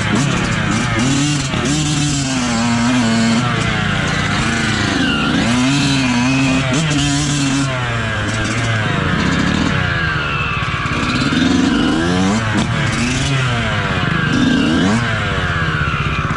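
Motocross bike engine at full ride, repeatedly revving up and dropping back as the rider works the throttle and gears.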